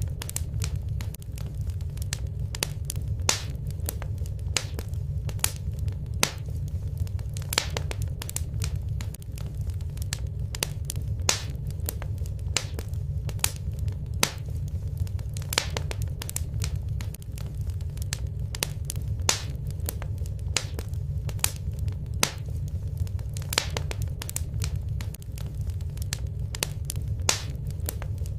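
Wood fire burning in a fireplace, with a steady low rumble and irregular sharp crackles and pops several times a second.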